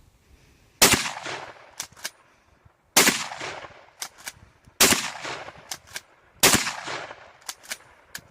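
Four 12-gauge shotgun shots about two seconds apart, each a sharp blast that rings away over about a second, with a few smaller sharp clicks between them.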